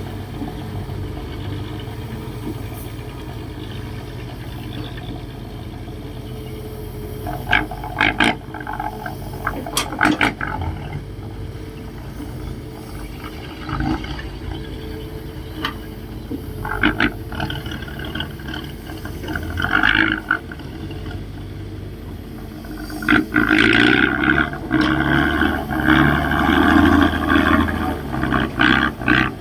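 Heavy diesel machinery running steadily, with repeated louder surges of revving under load, the longest and loudest in the last several seconds.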